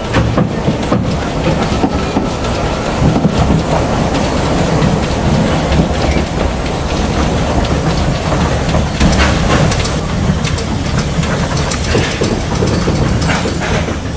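Vale of Rheidol narrow-gauge steam train running along the line: a steady rumble of wheels and carriages, with scattered clicks over the rail joints.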